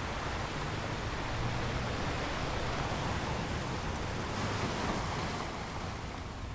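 Sea waves washing in as a steady surf, swelling for a few seconds and easing off near the end.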